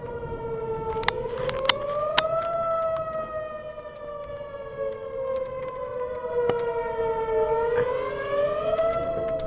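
Whelen Vortex outdoor tornado warning siren sounding its wail, its pitch slowly rising and falling, with a few sharp clicks over it.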